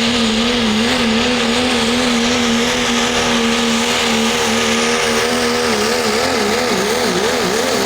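Pulling vehicle's engine running flat out at high revs while dragging a weight-transfer sled. The engine note holds high and wavers slightly, then wobbles and drops in pitch over the last two seconds as the run slows under the load.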